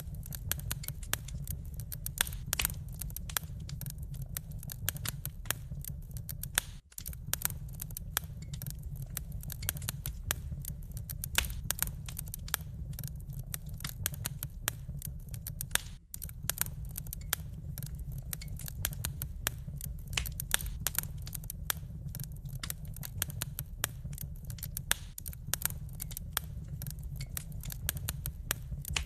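Wood fire crackling: a dense, steady stream of sharp pops and snaps over a low rumble, briefly cutting out twice.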